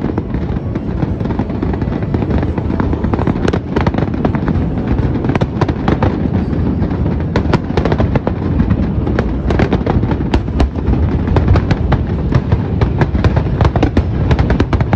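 Aerial fireworks shells bursting in rapid, overlapping succession: a continuous low rumble of booms under many sharp cracks and crackle, getting a little louder about four seconds in.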